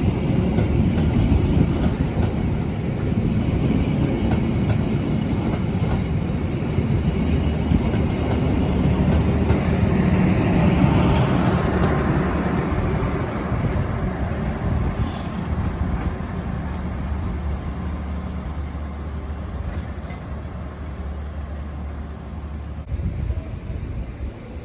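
Argo Parahyangan passenger train rolling through the station, a dense low rumble of its carriages that slowly fades, under a steady low hum that stops shortly before the end.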